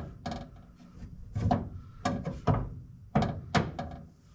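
About seven separate metallic clunks and knocks from a VW Vanagon's gearshift linkage as it is worked through its positions.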